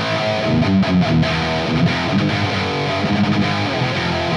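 Heavily distorted electric guitar riffing through a 5150-style high-gain amp and a Mesa V30 speaker, boosted by an Earthquaker Devices Plumes overdrive in its clean drive mode with the level all the way up. It plays repeated low palm-muted chugs, and the player hears the boost as overloading the front of the amp.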